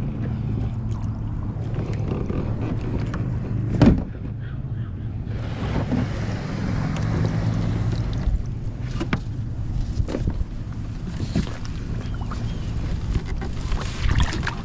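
Wind rumbling on the microphone aboard a fishing kayak, with a sharp knock about four seconds in and several fainter clicks and knocks.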